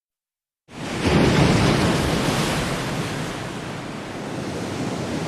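Silence, then less than a second in a loud, steady rushing noise starts abruptly, swelling briefly and then settling: an ambient background like surf or wind.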